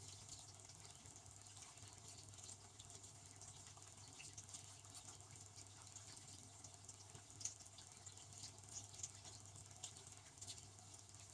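Devanti benchtop dishwasher running a wash: a faint, irregular patter of water spraying inside the tub, over a low steady hum.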